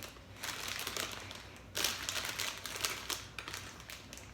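Plastic snack bag crinkling in irregular bursts as it is handled and turned over, with the loudest crackle a little under two seconds in.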